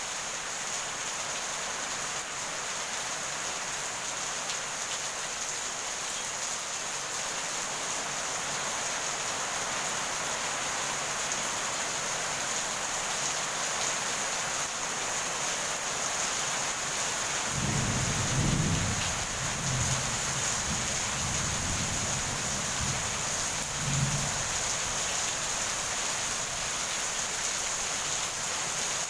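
Steady heavy rain, joined about two-thirds of the way in by a rolling rumble of thunder that lasts several seconds, with a second swell near the end.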